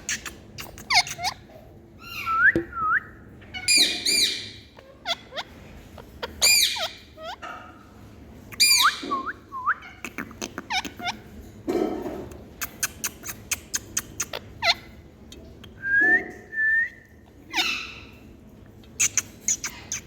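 Indian ringneck parrot calling: a run of short shrill calls and clicks, with short whistled notes that sweep upward in pitch, some in pairs.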